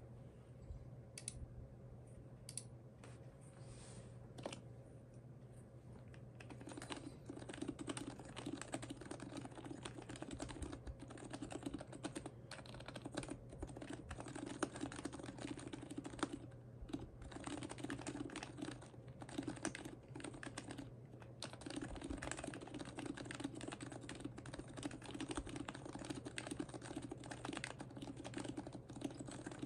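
Typing on an HHKB Professional Hybrid Type-S keyboard with lubed, silenced Topre switches in a heavy aluminum case. A few separate keystrokes come first, then steady, fast typing begins about six seconds in and runs on with a couple of brief pauses.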